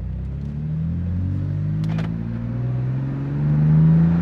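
BMW F80 M3's twin-turbo S55 inline-six pulling through a gear under acceleration. The engine note rises steadily in pitch and grows louder toward the end.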